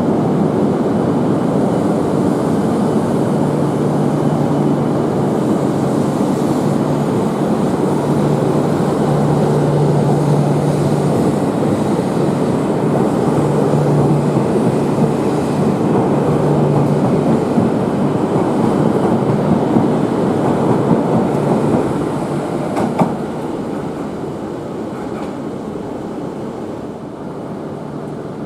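Train running beside the platform, a loud steady rumble with a low hum for much of the time, dying down from about two-thirds of the way through.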